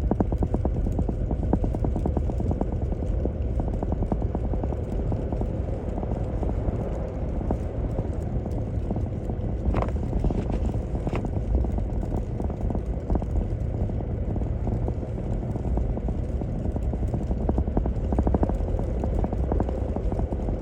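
Toyota Tacoma pickup driving slowly on a snow-covered road: a steady low rumble of engine and tyres with a dense, rapid crackle of the tyres over packed snow and ruts. A few sharp clicks come about halfway through.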